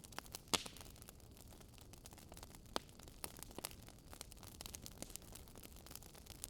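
Wood fire crackling: scattered, irregular sharp pops and snaps over a faint steady hiss, one louder pop about half a second in.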